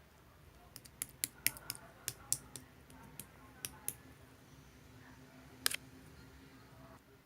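About a dozen sharp, irregular clicks, with the loudest one a little before the end, over a faint steady hum.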